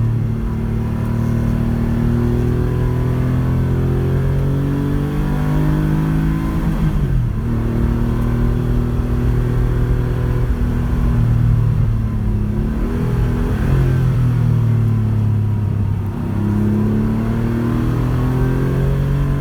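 Porsche 911 rally car's engine under load, its pitch climbing as it accelerates and dropping sharply at gear changes, most clearly about seven seconds in and again near the end.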